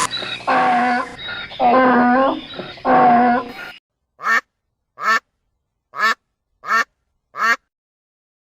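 Animal calls: three drawn-out pitched calls, then five short, evenly spaced calls about a second apart.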